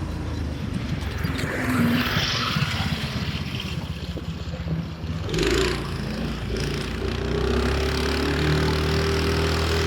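Go-kart's 420cc Predator single-cylinder engine running under way, its engine speed rising and falling, with the governor removed. About five and a half seconds in there is a brief louder rush of noise.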